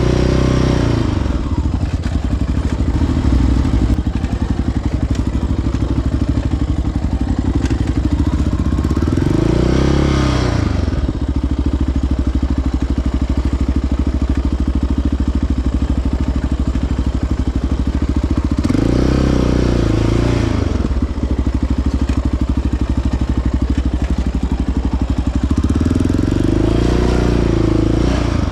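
Single-cylinder four-stroke sport ATV engine running along a trail. It revs up and eases off about four times: near the start, about a third of the way in, past halfway, and near the end.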